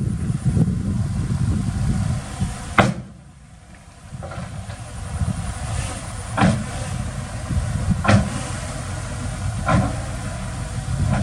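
Heavy diesel earthmoving machinery running with a low rumble. There is a sharp knock about three seconds in, then a brief drop in level, and three more sharp knocks about a second and a half apart in the second half.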